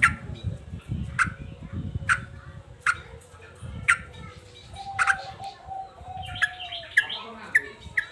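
Male yellow-vented bulbul (trucukan) calling agitatedly: sharp short notes that drop in pitch, about one a second, then a quicker run of notes near the end.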